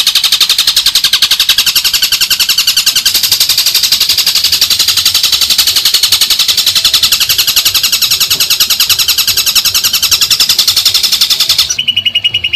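A songbird's loud rapid rattling trill, about a dozen harsh notes a second, played as a masteran training recording for a caged long-tailed shrike. Near the end it changes to a softer call with a thin steady whistle under the rattle.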